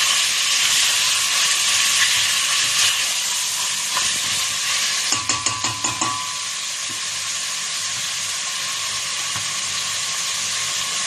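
Chicken pieces and sliced onion sizzling as they fry in oil in a stainless steel pot, stirred with a spatula. About five seconds in comes a quick run of clacks, the spatula knocking against the pot, after which the frying sizzles on a little quieter.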